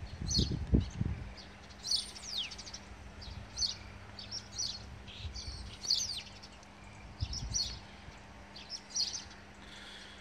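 Small birds chirping: short high calls every second or so, with a few quick falling notes among them. A couple of low thumps about half a second in.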